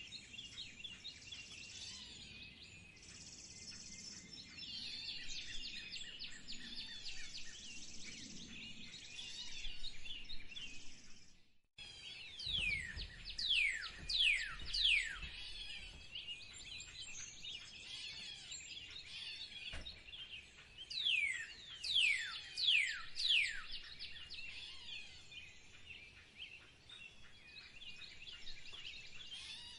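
Several wild birds chirping and calling together. About twelve seconds in, the sound cuts to a new scene, where a bird gives loud, clear whistled notes that slide downward in pitch. These come in two bouts of several notes each, over steady background chirping.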